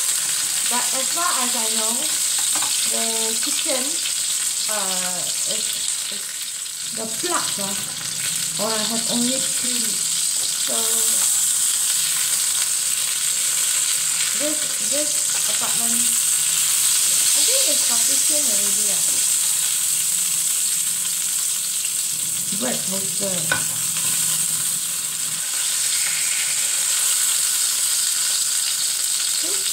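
A beef patty sizzling in hot oil in a frying pan, a steady high hiss, while a metal spatula stirs and scrapes it in the pan now and then.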